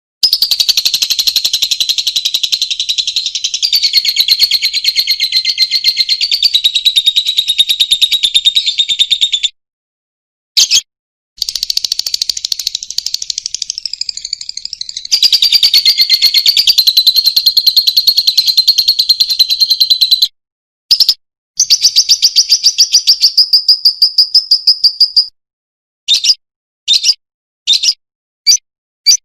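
Lovebird singing long, rapid chattering trills, the 'ngekek' song. Three runs of several seconds each are broken by brief pauses, and a few short bursts come near the end.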